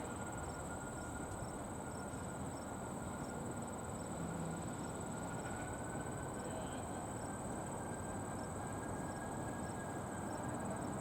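Steady rumble of a train rolling slowly across a road crossing, its cars shoved by an Alco RS-1 diesel locomotive.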